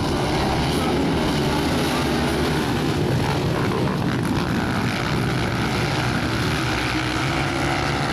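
Motocross bike engines running together, a loud, steady drone of overlapping engines whose pitch wavers up and down as the throttles are worked.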